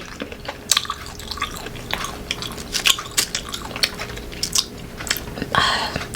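Close-up chewing of crunchy unripe green mango: a run of sharp, irregular crunches, with a longer, louder crunch near the end.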